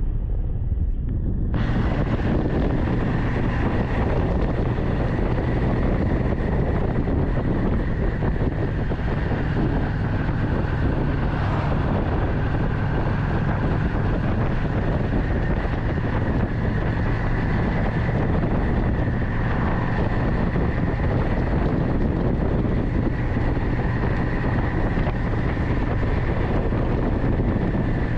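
Motorcycle engine running steadily at cruising speed, with wind rushing over the microphone; a cut about two seconds in switches to a fuller, brighter recording of the same steady ride.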